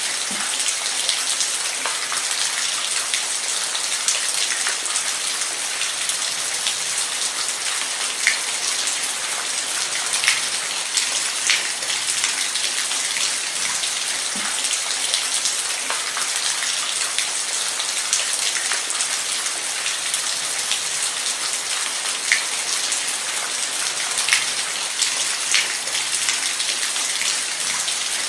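Steady rain falling on a surface, a constant hiss with scattered sharper drip ticks.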